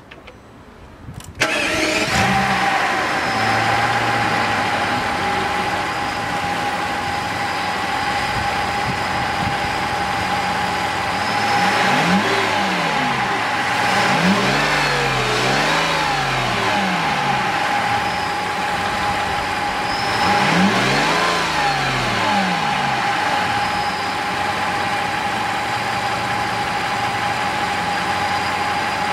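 Mercedes CL600's 5.8-litre V12 cranked and firing about a second in, then idling with a steady whine over it. In the middle it is revved up and let fall back to idle a few times, running on new motor mounts.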